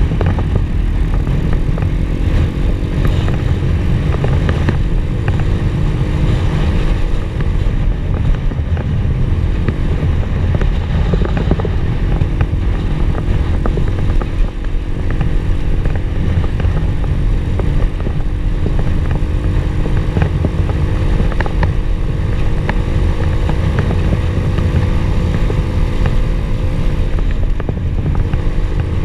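Pit bike engine running under way at fairly steady revs, with the pitch drifting slowly up and down, over heavy wind rumble on the microphone and scattered short knocks.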